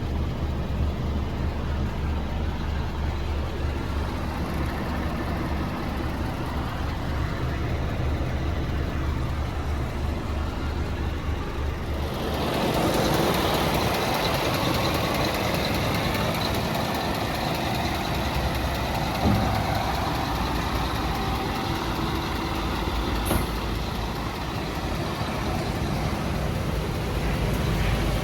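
Diesel engine of a Scania P320 truck running steadily at idle. About twelve seconds in, a louder, hissier machine sound comes in over the engine and carries on to the end, with a single click near the middle.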